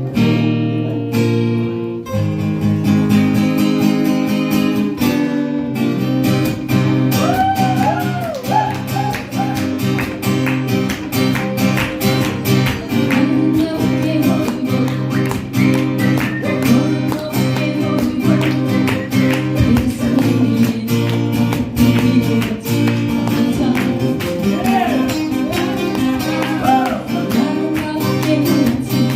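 Acoustic guitars strumming a song's accompaniment in a steady rhythm. A gliding melody line comes in over the strumming twice, about a quarter of the way in and again near the end.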